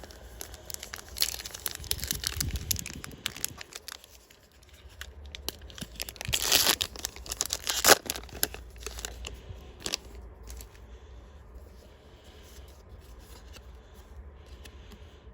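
A trading card booster pack's wrapper being crinkled and torn open, with a louder rip around the middle, then quieter rustling of the wrapper and cards.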